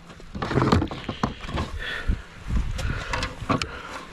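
Irregular knocks and clatter from handling a freshly caught bass on a measuring board aboard a kayak, with several sharp taps a second or so apart.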